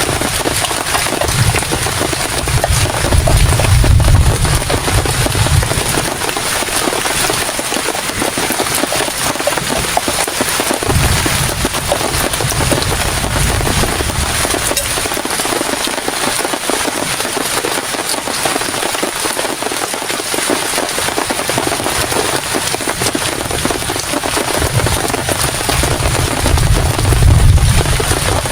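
Heavy rain falling hard, a dense, loud patter of drops. Deep rumbles swell beneath it three times: a couple of seconds in, around the middle, and near the end.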